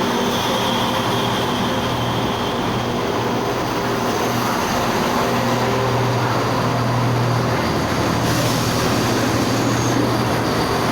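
A CrossCountry Class 170 Turbostar diesel multiple unit standing at the platform with its diesel engines running: a steady, loud drone that swells for a few seconds in the middle.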